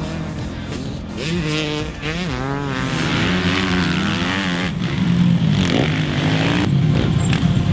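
Dirt bike engines revving up and down repeatedly as motocross bikes ride the track, several engine notes overlapping.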